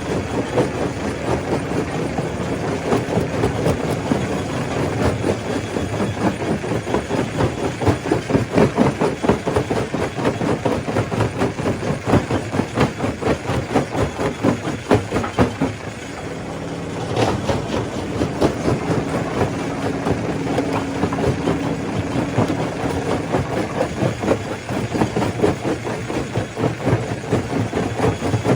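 Stone crusher running, with a dense, rapid clatter of rock being broken over a steady low machine hum. There is a brief lull a little past halfway, then a single sharp knock.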